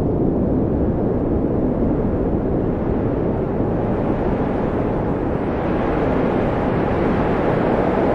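Wind blowing in a steady low rush, building toward a stronger gust over the second half, with a faint whistle near the end.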